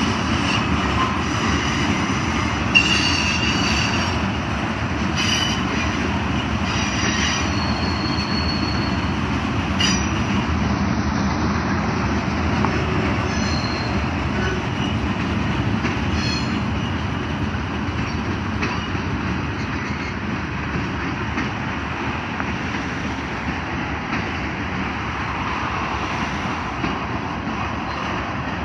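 Freight train rolling past at close range: a steady rumble of steel wheels on rail with clicking over rail joints, and several brief high-pitched wheel squeals in the first half. The sound eases slightly near the end as the last cars go by.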